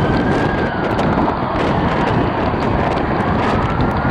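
Steady rush of street traffic with a siren wailing slowly up and down over it, starting a new rise near the end.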